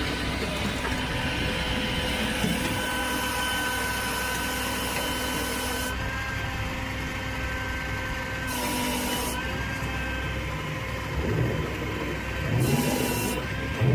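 Flatbed rollback tow truck running with a steady mechanical whine from its hydraulics as the bed is worked to unload a pickup truck.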